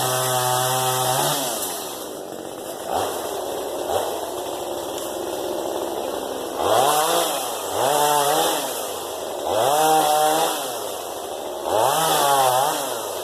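Hoteche chainsaw revving up and dropping back to idle again and again: a long rev at the start, short blips around three and four seconds in, then four quick rev-ups in the second half.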